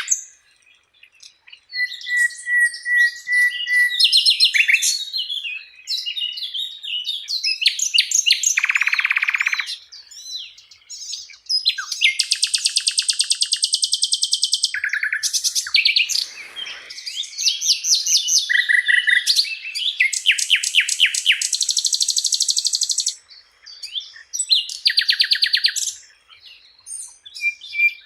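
Sikatan londo flycatcher singing a long, varied song of chirps, whistled notes and fast rattling trills, with brief pauses between phrases.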